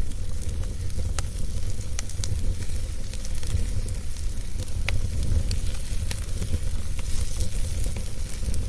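Wood fire burning in a fireplace: irregular sharp crackles and pops over a steady low rumble and hiss of the flames.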